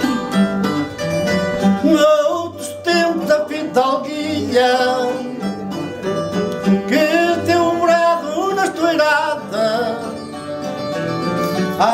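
Fado instrumental introduction: the Portuguese guitar plays a wavering melody over plucked chords from the viola de fado (classical guitar).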